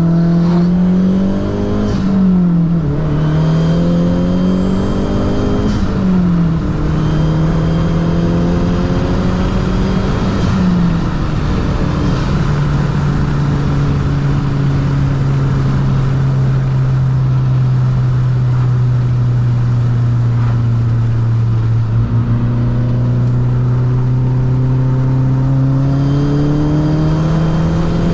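Straight-piped Mazdaspeed3's turbocharged 2.3-litre four-cylinder under hard acceleration: the engine note climbs and drops back three times in quick succession as it shifts up, then holds a steady pitch for a long stretch before climbing again near the end.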